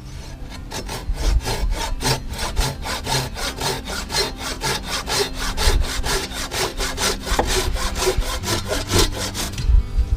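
Silky pruning saw cutting through a small wooden branch in fast, even strokes, about four a second, stopping abruptly near the end.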